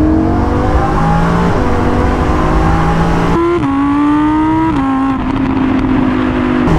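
Lamborghini Huracán's 5.2-litre V10 accelerating under load, its note climbing steadily and dropping at two upshifts. It is heard first from inside the cabin, then close to the exhaust tailpipes from about three seconds in.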